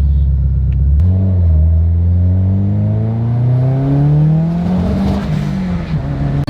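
Subaru Forester XT's turbocharged flat-four engine running steadily, then accelerating hard from about a second in, its pitch rising for several seconds before it eases off near the end: a boost run on the freshly refitted wastegate.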